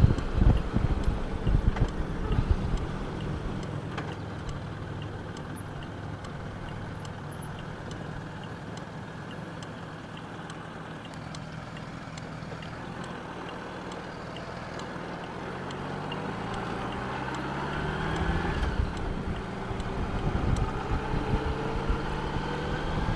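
Honda Gold Wing motorcycle on the road, with wind buffeting the microphone at first. The wind dies down as the bike slows almost to a stop. About fifteen seconds in, the engine pulls away, rising in pitch through the gears, twice.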